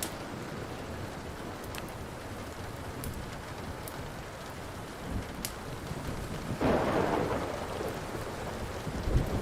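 Steady rain with a thunder rumble swelling about two-thirds of the way through, and a few sharp pops from a crackling wood fire.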